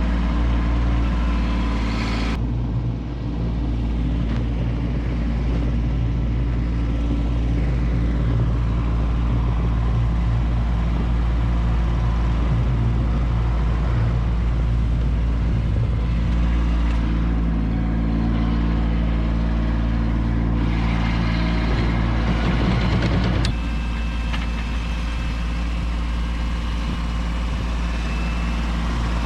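Kubota B2601 compact tractor's three-cylinder diesel engine running steadily, its sound changing about two seconds in and again toward the end.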